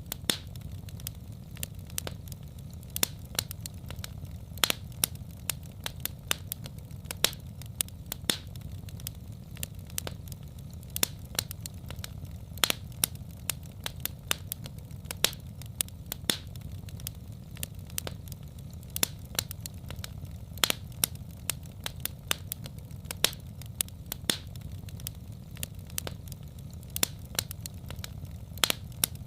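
Wood fire crackling in a fireplace: a steady low rumble of flame with frequent sharp, irregular pops and snaps.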